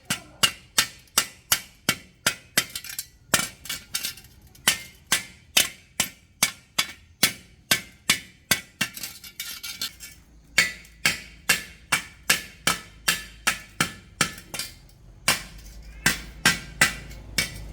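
Hammer blows on metal, about three a second, in runs with short pauses, each strike ringing. A low hum comes in about halfway through.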